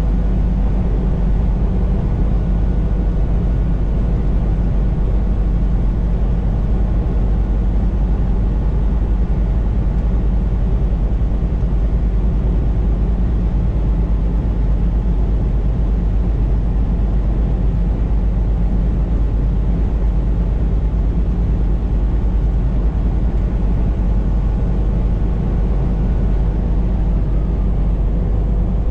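Steady drone of a semi truck cruising on the highway, heard from inside the cab: a constant low engine rumble with road noise.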